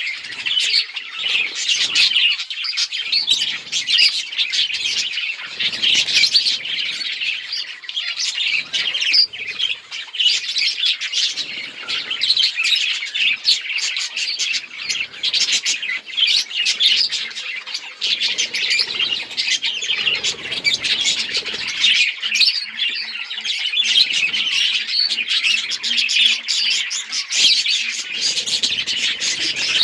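A flock of budgerigars chirping all at once: a dense, continuous chatter of short, high chirps overlapping one another.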